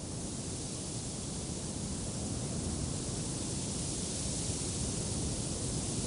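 Steady wind noise, an even rushing hiss over a low rumble, slowly swelling a little louder.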